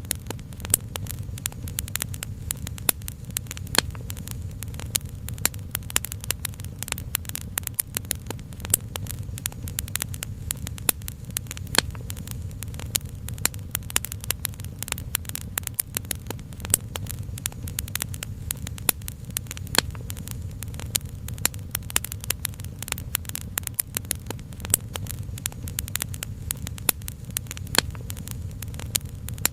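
Wood fire crackling: dense, irregular sharp pops and snaps over a steady low rumble.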